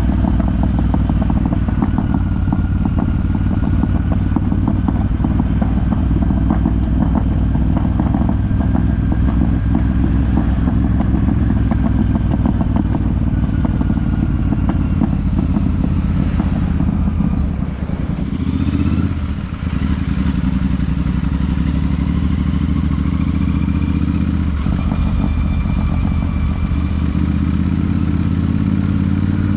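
Royal Enfield Super Meteor 650's parallel-twin engine and exhaust running steadily under way. The level dips briefly twice a little past halfway through, then the engine runs on.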